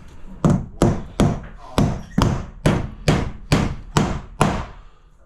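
Claw hammer driving a nail through a cement sheet into a timber stud: ten sharp, evenly paced blows, about two and a half a second, stopping near the end.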